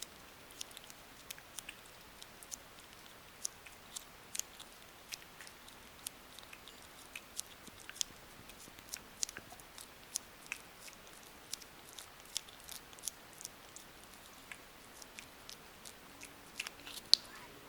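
Cats chewing and biting their food: a quick, irregular run of small crisp clicks, with one sharper click near the end.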